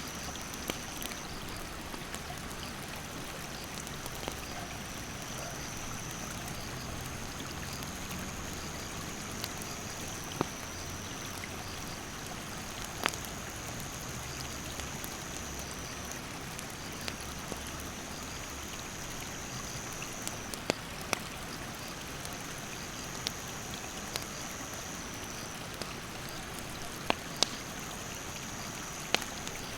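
A river rushes steadily while a wood campfire crackles with scattered sharp pops. An insect's high, steady trill comes and goes in stretches of a few seconds.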